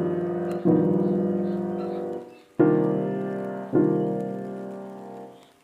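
Background piano music: slow sustained chords, each struck and left to fade, a new one about every one to two seconds.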